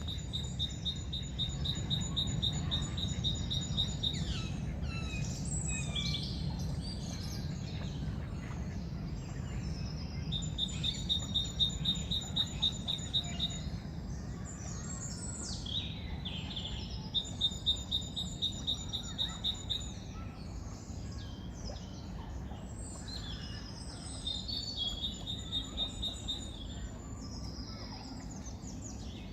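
Birds singing: a rapid, high, evenly pulsed trill lasting a few seconds comes back several times, with varied chirping songs in between, over a steady low rumble.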